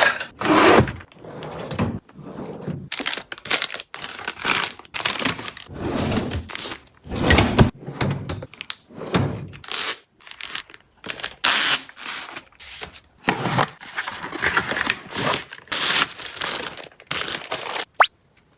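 Packaging and containers being handled during a restock: crinkling and rustling of wrappers and items set down with light thunks, in quick irregular bursts. It stops abruptly near the end.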